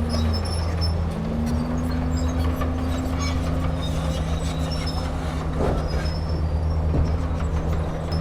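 Komatsu D31P crawler bulldozer's diesel engine running steadily under load, its pitch dipping briefly about half a second in and recovering a second in, with many small metallic clicks from the steel tracks.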